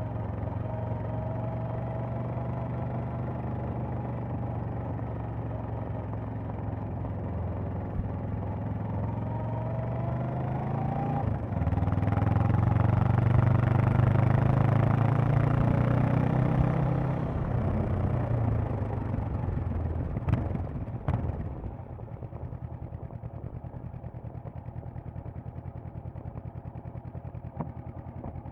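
Honda CB500X's parallel-twin engine and exhaust under way, rising in pitch and getting louder about halfway through, then easing off with two sharp clicks and settling to a steady, quieter idle for the last few seconds.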